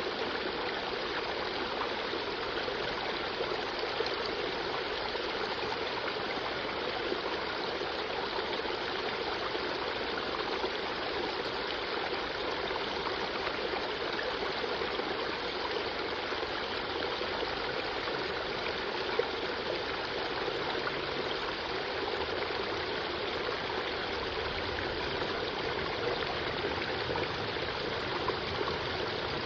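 Creek water flowing, a steady rushing and trickling that stays even throughout.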